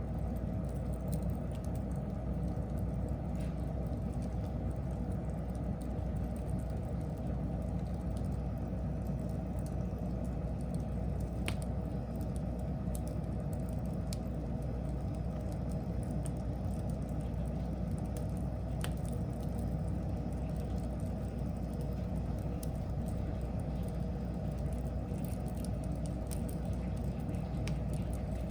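Wood fire burning with a steady low rush and occasional sharp crackles and pops, two of them clearer, about 11 and 19 seconds in.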